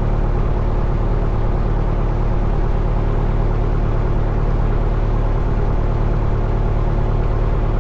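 A 1972 Cessna Skyhawk's four-cylinder Lycoming O-320 piston engine and propeller idling steadily on the ground after start, a constant low drone.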